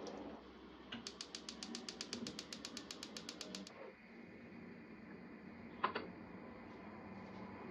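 Rapid, even mechanical clicking, about eight clicks a second for nearly three seconds, then a single sharper click a couple of seconds later.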